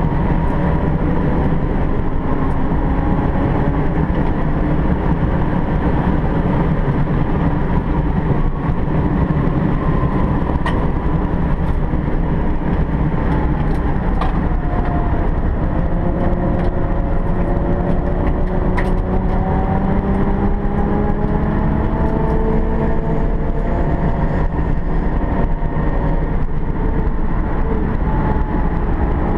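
Alfa Romeo 164's engine heard from inside the cabin while it is driven hard on a race circuit. Its pitch climbs under acceleration and drops as the driver lifts off, several times over, above steady road and wind noise.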